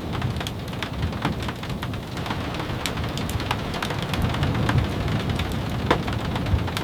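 Steady rain on a wooden cabin, with a constant low rumble underneath and many scattered sharp ticks.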